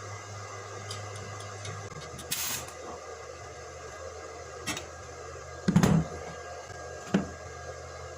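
Steady electrical hum with a short hiss about two seconds in, a few sharp clicks, and one loud knock just before six seconds, from handling steel pieces during welding work.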